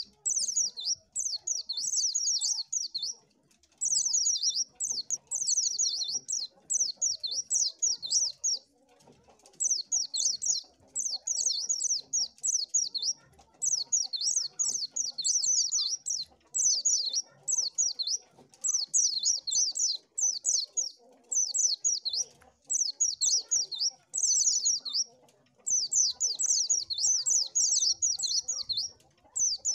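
White-eye (pleci) singing: fast, high, twittering phrases of a second or two each, repeated over and over with only brief pauses.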